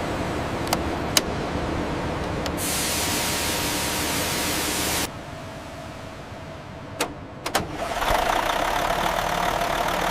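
A loud hiss that cuts off suddenly, then a few sharp clicks, and about eight seconds in an excavator's diesel engine starts and settles into a steady run.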